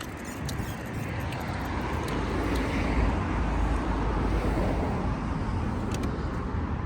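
Wind rushing over a handheld phone's microphone on a moving bicycle, with city traffic noise around it.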